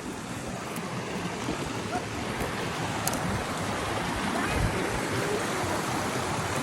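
Creek water running over rocks: a steady rush of moving water that grows slightly louder, with a faint click or two.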